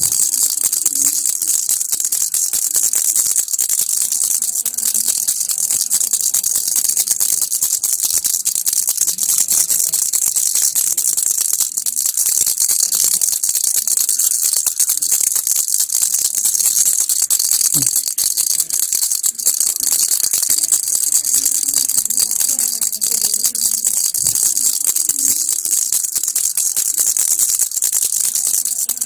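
Baby rattle (kilukki) shaken continuously: a dense, steady, high-pitched rattling of small beads, without a break.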